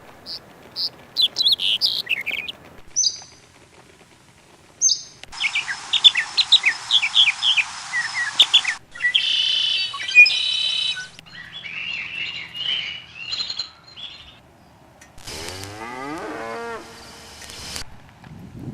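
Birds chirping in short snatches that start and stop abruptly, then a cow mooing once, a long call of about two and a half seconds near the end.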